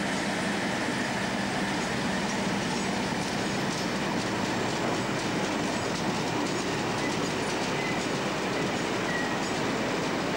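Freight train of open box wagons rolling past at close range behind a Class 56 diesel locomotive: a steady rumble of wheels with clicking over rail joints, and a couple of short faint wheel squeals in the second half.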